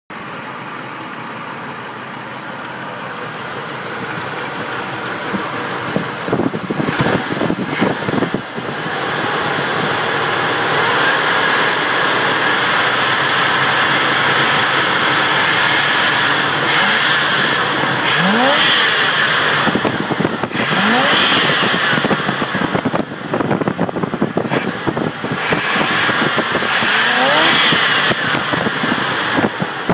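1973 Oldsmobile Cutlass Colonnade engine running, heard up close at the carburetor. It is revved several times in short blips, each climbing in pitch and dropping back.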